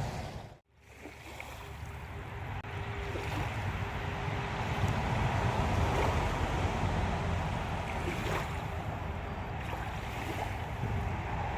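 Wind buffeting the microphone outdoors by a lake: a steady rushing noise, heaviest in the low rumble. It drops out for a moment less than a second in, then picks up again.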